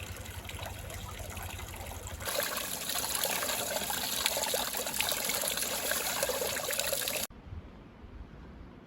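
Water flowing and trickling steadily. It gets louder about two seconds in, then cuts off abruptly about seven seconds in, leaving faint outdoor air.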